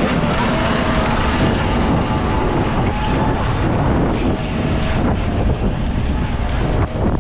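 Wind rushing and buffeting over the microphone on a moving mini bike, with the small engine running underneath.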